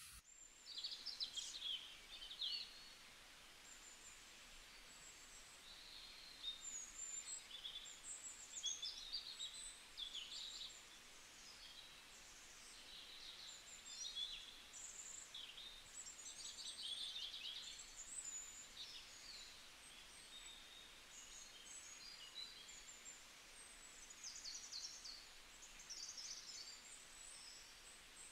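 Wild birds calling: many short high chirps and quick trills, one after another, fairly faint over a soft steady hiss.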